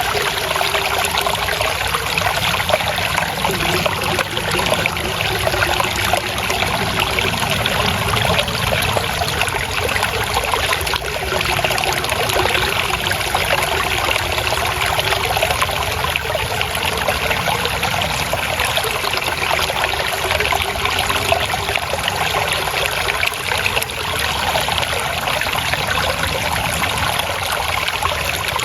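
Water flowing and trickling steadily in a small stream, a continuous babbling.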